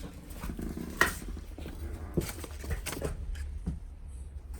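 Scattered light clicks and paper rustling as old documents and small objects are handled, over a steady low rumble of handling noise.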